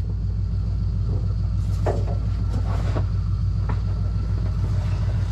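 Ford F250 pickup's engine idling steadily, with a few light knocks and clicks over it.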